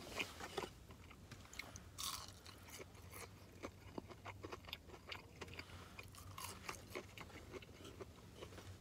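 A person chewing breaded, fried Sriracha cheese curds close to the microphone: faint wet chewing with many small crisp crunches, the loudest about two seconds in.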